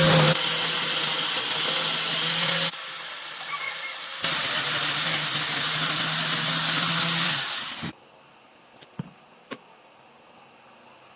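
An electric power tool running steadily with a constant motor hum and a harsh hiss. It quietens for about a second and a half, comes back at full level, then winds down and stops about eight seconds in, followed by a few light clicks.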